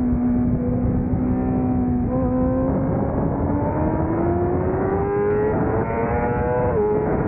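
600cc racing motorcycle engine under full throttle, its pitch holding steady for about two seconds and then climbing with the revs. It drops sharply near the end as the bike shifts up a gear. A constant rush of noise runs underneath.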